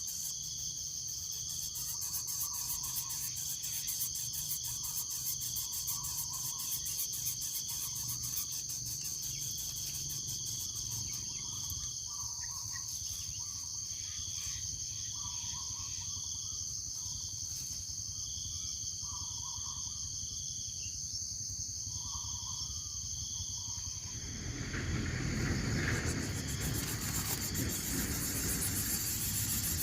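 Insects shrilling in a steady high drone, with a short two-pitched call repeating about every second and a half. From about 24 seconds in, a louder rustling, rubbing noise comes over it.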